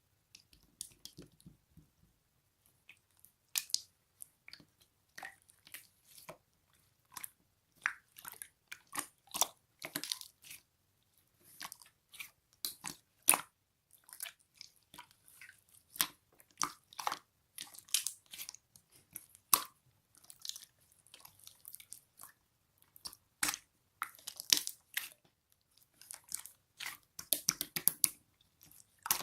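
Clear glitter slime being squeezed and poked by hand, making irregular sticky clicks, crackles and pops.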